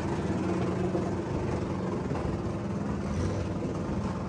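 A car engine held at steady revs, its pitch barely moving, as on a two-step launch limiter.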